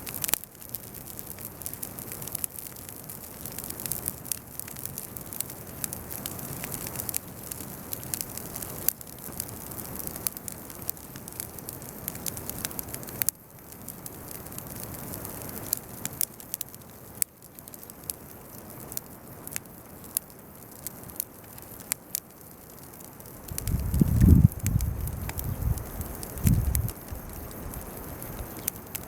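Bonfire of weeds and chestnut burrs crackling, with many sharp pops over a steady hiss. A loud low rumble comes in about three-quarters of the way through and dies away over a few seconds.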